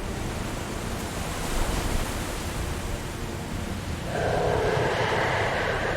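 Steady rushing of fast floodwater, a dense hiss with no distinct events, growing louder with an extra layer of rushing noise about four seconds in.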